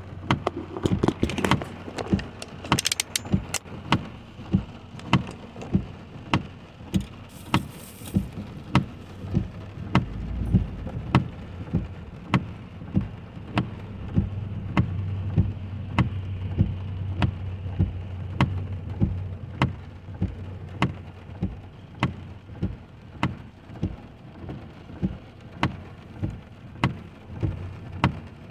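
A car's turn signal ticking steadily, about four clicks every three seconds, while the driver waits to pull out. Under it, rain falls on the car and the engine idles with a low hum.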